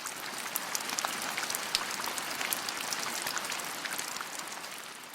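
Slime being squeezed and worked by hand, a dense run of fine crackling and small pops that swells in and fades out near the end.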